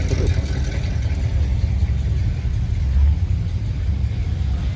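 Steady low car engine rumble with a slight swell about three seconds in.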